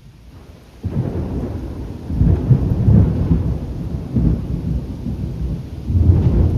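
Thunder: a sudden loud crack about a second in, then deep rolling rumbles that swell again twice.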